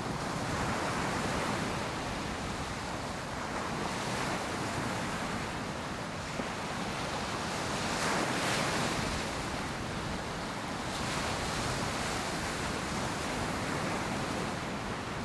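Ocean surf breaking and washing on a beach, a steady rush that swells and eases, loudest about halfway through, with some wind on the microphone.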